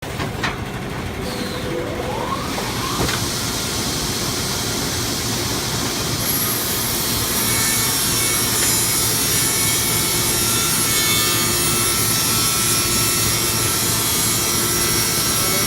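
A motorised machine running steadily. Its sound builds over the first several seconds and then holds at a constant level.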